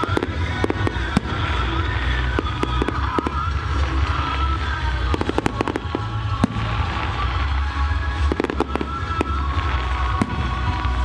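Fireworks going off in clusters of sharp bangs and crackles every few seconds, over music playing from distant loudspeakers.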